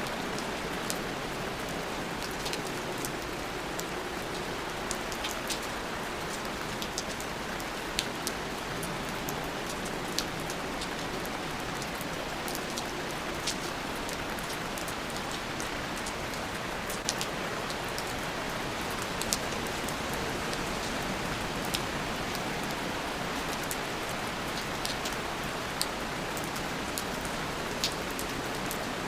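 Steady rain, with individual drops ticking sharply and irregularly close by.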